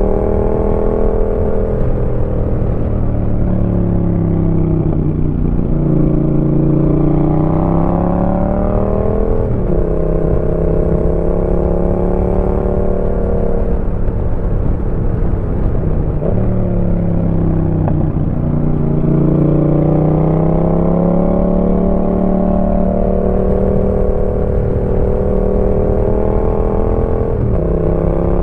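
Yamaha MT-07's parallel-twin engine through a Roadsitalia aftermarket exhaust while riding. The exhaust note rises and falls with the throttle, with a few sudden pitch drops at gear changes.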